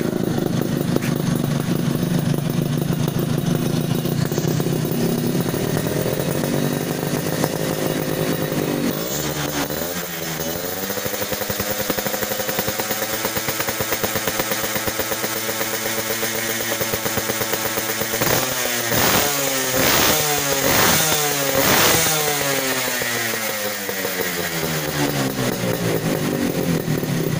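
Suzuki Satria RU two-stroke single-cylinder motorcycle engine running through an aftermarket exhaust. It idles, climbs to higher revs about a quarter of the way in and holds there. Later it gives a run of quick, sharp throttle blips before dropping back.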